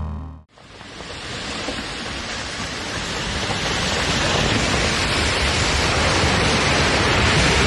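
Background music cuts off half a second in, then a steady rushing noise swells up over the next few seconds and holds.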